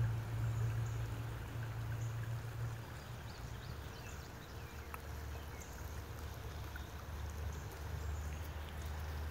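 Creek water faintly flowing and trickling under a steady low rumble, with a few faint high chirps now and then.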